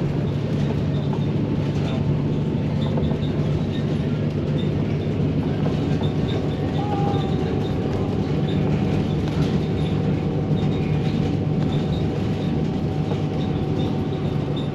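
A bus running along the road, heard from inside: steady engine drone and road noise without a break.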